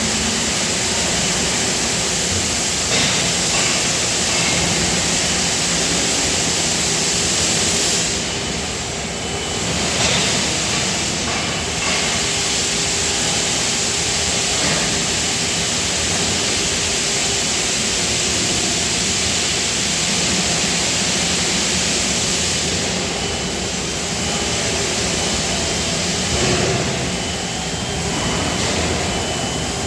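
Steady, loud factory machinery noise with a strong hiss over it, the hiss easing briefly a couple of times.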